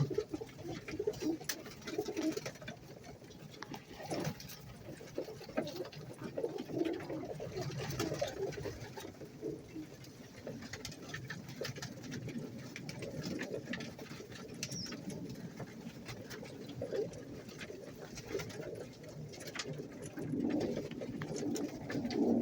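Fancy pigeons cooing again and again, with many small scattered clicks and taps.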